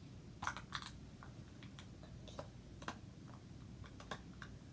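Hands working at a plastic toy surprise package, making scattered light clicks and taps, with two sharper clicks about half a second in.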